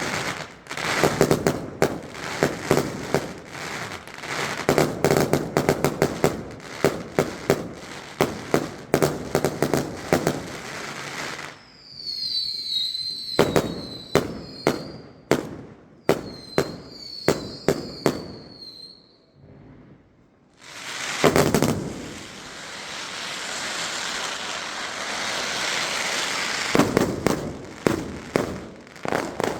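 Fireworks going off: a rapid barrage of sharp bangs and cracks, then high wavering whistles among scattered bangs, a steady hissing crackle, and more bangs near the end.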